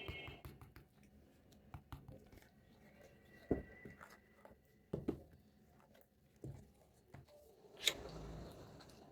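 Small plastic toy pieces being handled and set down, with scattered light clicks and taps and a few louder knocks.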